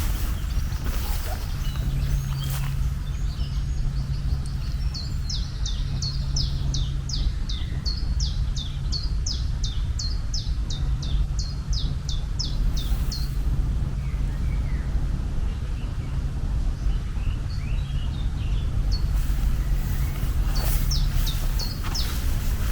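A songbird calling in a quick series of short, falling chirps, about two a second for some ten seconds, and again briefly near the end, over a steady low rumble.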